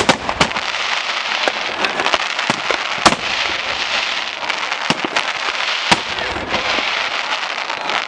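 Fireworks going off continuously: a dense crackle under a string of sharp bangs, the loudest right at the start and about three seconds in.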